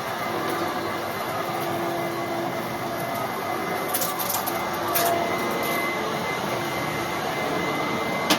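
1995 Fantom Thunder vacuum cleaner running steadily, its motor giving an even whir with a few held tones. A few brief clicks or knocks come through about four and five seconds in and again near the end.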